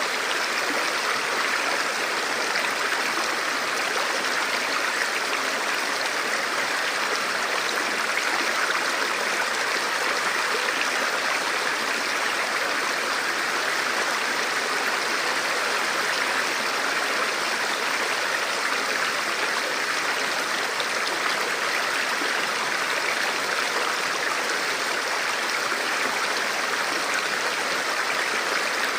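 Forest river or stream flowing steadily, an even rushing of water.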